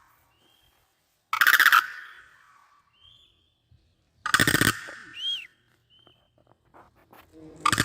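Crane calling: loud, harsh, rattling calls repeated about every three seconds, two full calls with a third starting near the end. A short faint whistle follows the second call.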